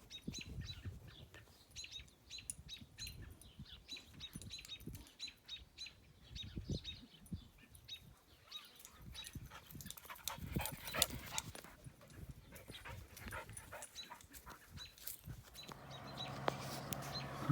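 Faint dog sounds: small whines among light clicks and rustles. A steady low hum starts near the end.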